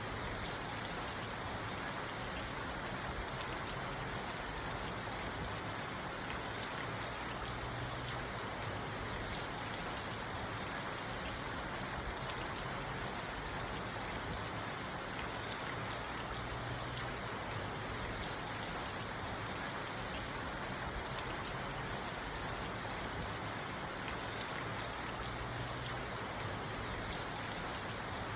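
Steady rain falling on a parked car, heard from inside the cabin as an even patter of drops on the roof and windows.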